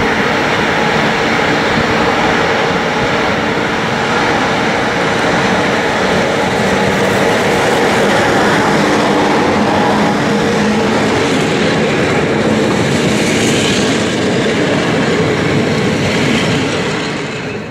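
CFR Class 41 electric locomotive hauling a passenger train past at low speed, running with a steady loud hum, then the coaches rolling by with wheels clattering on the rails. The noise fades away near the end.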